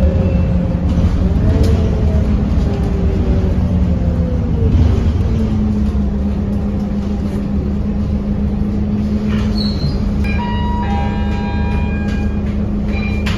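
Scania K230UB bus's diesel engine running, its pitch rising and falling over the first few seconds, then settling into a steady drone. Several short high electronic tones sound near the end.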